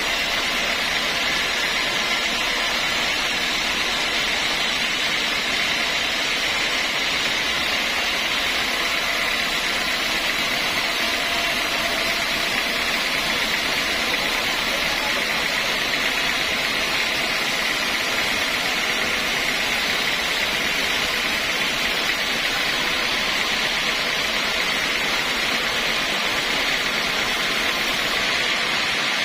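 Sawmill saw running steadily: an even, unchanging hiss with a few faint steady tones, and no breaks or shifts in pitch.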